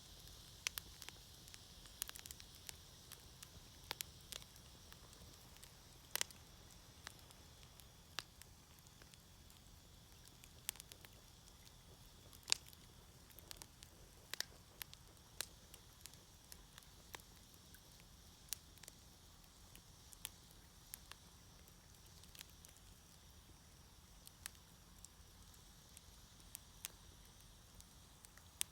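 Wood fire burning in a Snow Peak fire pit, crackling with irregular sharp pops over a faint steady hiss.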